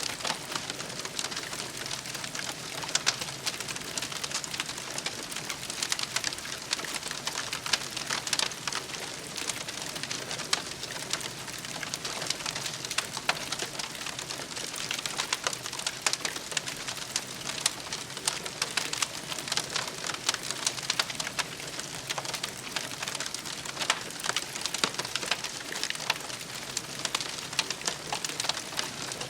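Wood campfire crackling steadily, with dense small pops and snaps.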